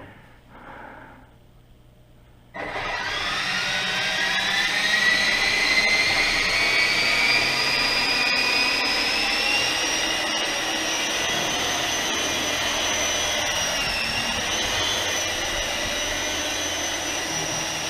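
UDI U12A co-axial RC helicopter's electric motors spinning up about two and a half seconds in, a whine rising in pitch over a few seconds as the rotors come up to speed, then running steadily with a whoosh of rotor wash.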